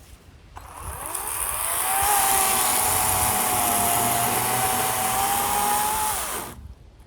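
EGO 56-volt battery chainsaw starting about half a second in with a rising whine, running at a steady high whine whose pitch sags slightly in the middle, then stopping shortly before the end.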